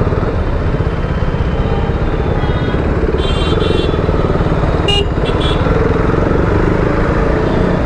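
KTM Duke 390's single-cylinder engine running steadily while riding in traffic, with vehicle horns honking a couple of times: once for under a second about three seconds in, and a short toot around five seconds in.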